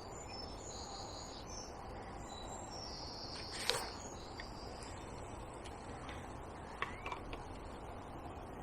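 Outdoor riverside ambience: high-pitched songbird notes over a steady low background noise, with a sharp click a little under four seconds in and two lighter clicks near the seven-second mark.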